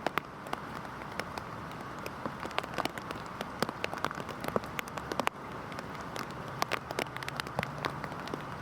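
Heavy rain falling steadily, with many separate drops striking a hard surface as sharp, irregular ticks over the hiss.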